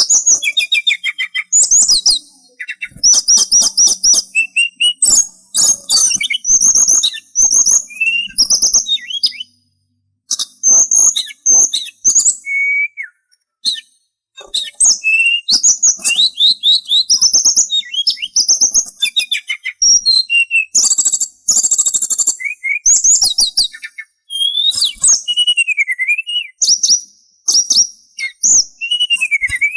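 Sulingan songbird singing a continuous, varied song of rapid high chirps, trills and whistled up-and-down glides, with brief pauses about ten and fourteen seconds in.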